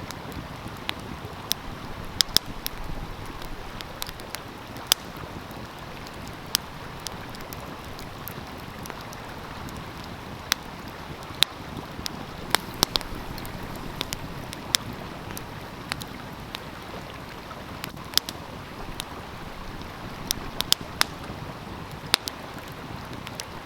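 Wood fire crackling, with irregular sharp pops and snaps, over the steady rushing of a flowing stream.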